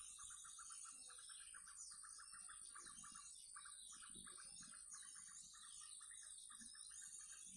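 Faint small birds chirping and calling, with varied chirps over a fast, steady pulsing trill.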